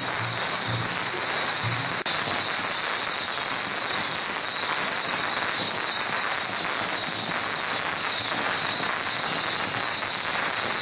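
Strings of firecrackers going off in a dense, continuous crackle, with a steady high-pitched tone over it.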